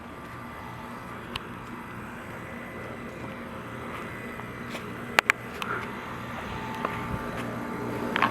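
Carrier Comfort Series 5-ton heat pump outdoor unit running with a steady low hum, growing slightly louder, with a couple of sharp clicks about five seconds in.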